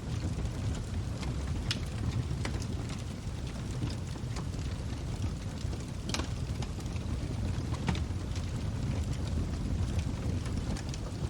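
Log fire crackling in a fireplace: a steady low rumble of burning with sharp pops and snaps scattered throughout, the loudest about two, six and eight seconds in.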